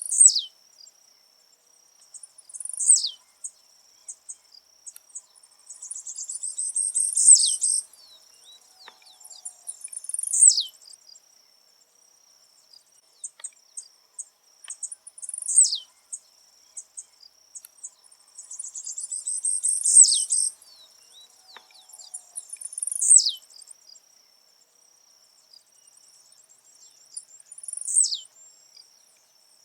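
Blue-black grassquit (tiziu) singing: short, high, buzzy notes that sweep sharply downward, repeated every few seconds, with two longer buzzy chattering phrases about seven and twenty seconds in. A steady high-pitched trill, like a cricket's, runs underneath.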